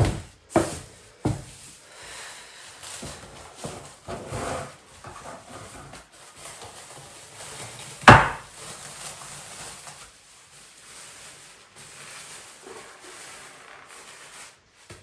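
A series of knocks and clattering handling sounds, with a few sharp knocks in the first second or so and one much louder sharp knock about eight seconds in.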